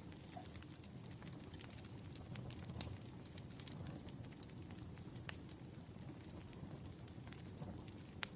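Wood fire burning, a low steady rumble with scattered crackles and sharp pops, the loudest snaps about three seconds in, near five seconds and near the end.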